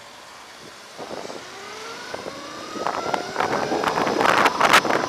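Electric motorbike's motor whine rising in pitch as it pulls away and speeds up. Wind buffeting on the microphone grows louder with speed and becomes the loudest sound in the second half.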